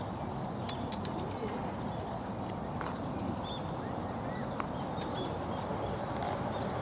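Birds chirping and calling in short, high notes, scattered irregularly over a steady background din.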